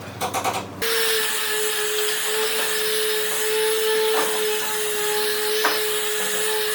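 A few light knocks, then an electric power tool switches on abruptly and runs at a steady speed with a constant whine over a loud rushing hiss. Faint brief contact sounds come over it twice.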